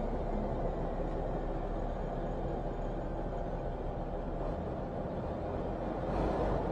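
Race vehicle engine running at a steady, even rumble, getting slightly louder near the end.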